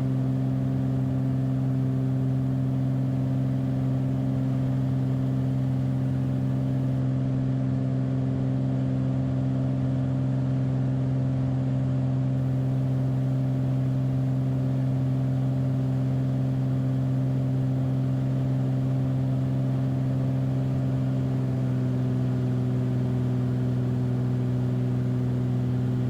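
Single-engine Beechcraft Bonanza's piston engine and propeller droning steadily at climb power just after takeoff, heard inside the cabin. The tone shifts slightly about 21 seconds in.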